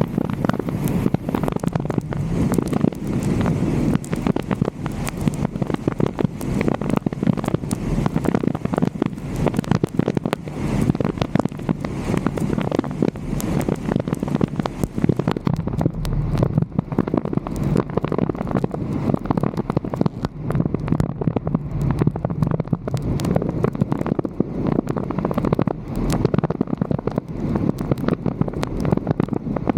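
Wind noise on a car-roof-mounted 360° camera's microphone as the vehicle drives, a steady low rumble with dense crackling pops throughout.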